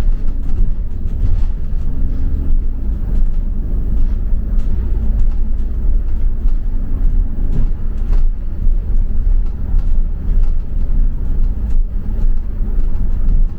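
Double-decker bus on the move, heard from on board: a steady low rumble of engine and road noise, with a brief hum rising out of it twice.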